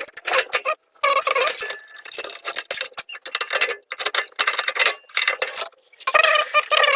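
Small metal clicks and clinks of screws and heater panels being handled during reassembly, with a high, wavering tonal sound in short bursts, loudest about six seconds in.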